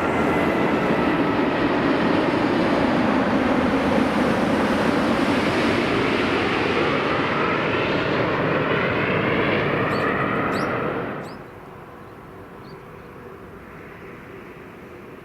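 Four-engine Airbus A380 passing low overhead on its landing approach, a loud jet engine roar with sweeping, shifting tones. It cuts off abruptly about eleven seconds in, leaving a much quieter background hum.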